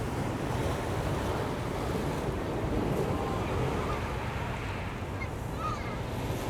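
Ocean surf washing onto the beach in a steady wash of waves, with wind rumbling on the microphone. Faint distant voices of people on the beach are heard now and then.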